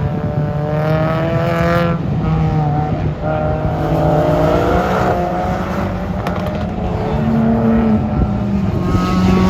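Race car engines running hard on the track, several cars passing one after another, their engine notes rising and falling as they accelerate and shift, over a steady low engine drone.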